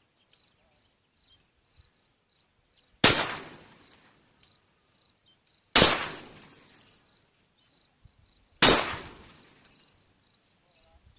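Three AR-15 rifle shots through a muzzle brake, evenly spaced about two and a half seconds apart, each with a brief metallic ring from a steel gong target being hit.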